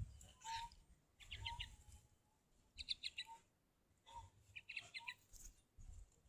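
A bird chirping in three short bursts of three or four quick high notes each, spaced about a second and a half apart.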